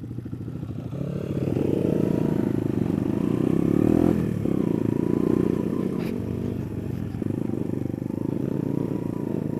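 Small off-road motorcycle engine pulling away and accelerating, with a gear change about four seconds in and another about seven seconds in.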